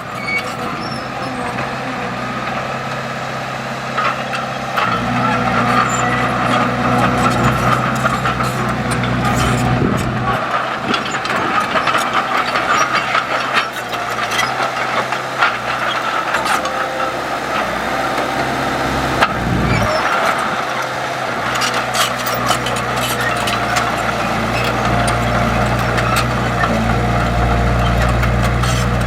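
Diesel engines of heavy earthmoving machinery running steadily, with scattered clanks and knocks. The low engine drone drops away twice for a few seconds.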